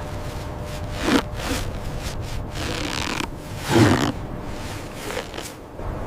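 Three short rasping, scraping noises over a steady low rumble of wind. The loudest comes just before the four-second mark, with a fainter one about a second in and another past five seconds.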